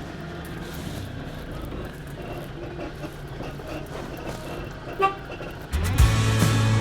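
Campervan engine running with a steady low hum, and one short horn toot about five seconds in. Music comes in near the end.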